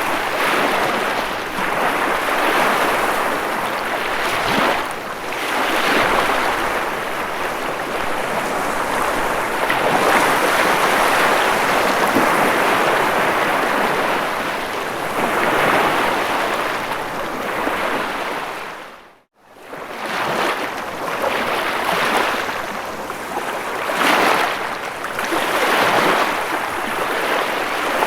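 Ocean surf: waves washing and breaking, a steady rushing noise that swells and ebbs every few seconds. About two-thirds of the way in, the sound fades out to silence for a moment and comes back, like a splice in a looped recording.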